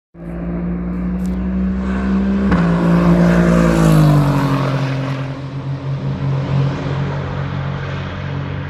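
GT race car passing at speed. The engine note drops in pitch as it goes by, loudest about four seconds in, then fades as the car moves away.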